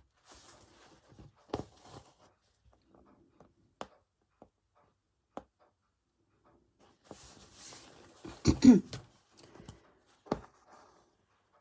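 Hand-embroidery handling sounds: soft rustles of thread being drawn through fabric and small clicks and taps, with a louder short sound that falls in pitch near the end.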